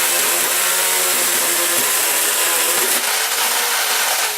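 Chainsaw running at full speed, cutting through a plastic toy figure. About three seconds in the cutting noise eases and the motor's pitch sags a little.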